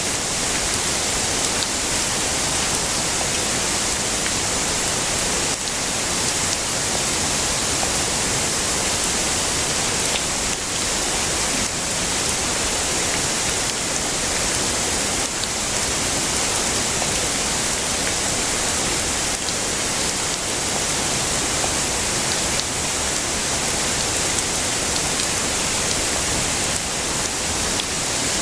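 Heavy rain falling steadily: a dense, even hiss with a few louder drop ticks here and there.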